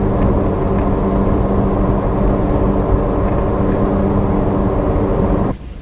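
Steady vehicle noise: a low hum with its overtones over a heavy rumble, cutting off abruptly about five and a half seconds in.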